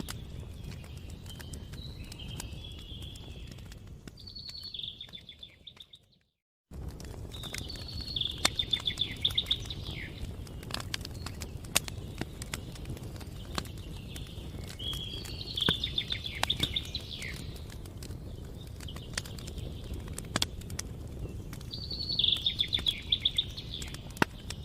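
Campfire crackling with scattered sharp pops over a steady low rumble, while a songbird sings short trilling phrases about five times. All sound drops out for under a second about six seconds in, then resumes.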